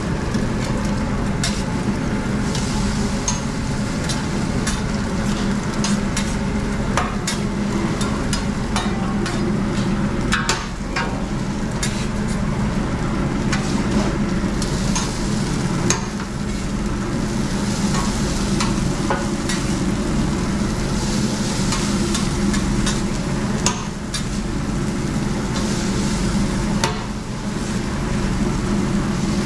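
Food frying and sizzling on a commercial kitchen cooktop, with frequent sharp clicks and scrapes of metal utensils and pans, over a steady low hum.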